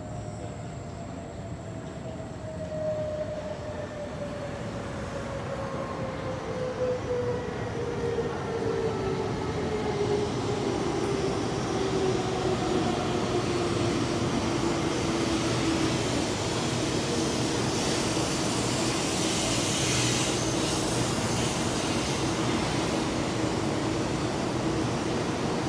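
Taiwan High Speed Rail 700T bullet train pulling into a station, growing louder as it arrives. Its electric motors give a whine that falls steadily in pitch as the train brakes and slows, then levels off, over the rush of the cars passing alongside.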